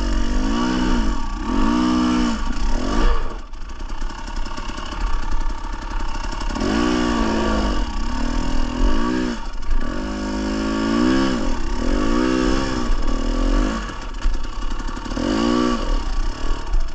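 Dirt bike engine revving in repeated short bursts, its pitch climbing and falling back with each blip of the throttle.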